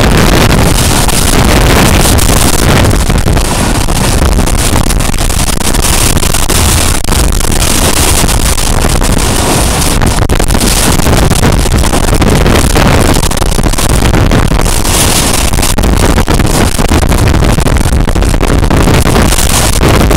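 Loud wind buffeting the microphone at the open window of a passenger coach running at high speed, over the steady rumble and clatter of the train's wheels on the rails.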